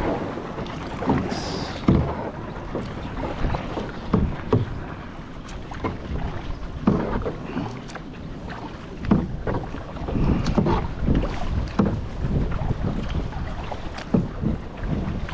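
Kayak being paddled: irregular splashes and knocks of the paddle in the water, over a low rumble of wind on the microphone.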